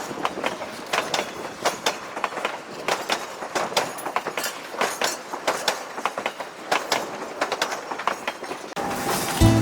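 Narrow gauge railroad cars rolling along the track, the wheels giving a rapid, irregular clicking and clacking over the rail joints with a steady running hiss. Music starts near the end.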